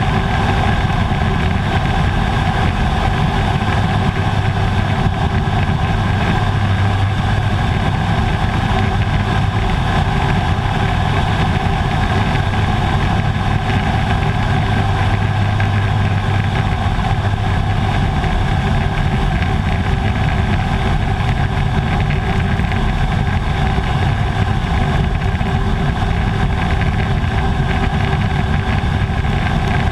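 Air Tractor AT-502's turboprop engine and propeller running steadily, a continuous drone with several steady tones; the lowest tone swells for a stretch in the first half, then eases back.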